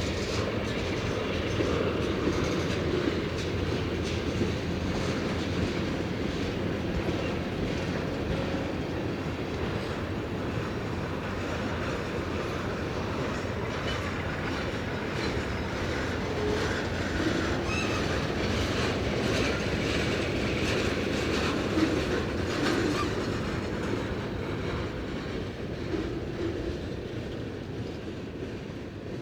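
Freight train cars rolling past, steel wheels clacking over rail joints, with brief faint wheel squeals. The sound fades over the last few seconds as the train moves off.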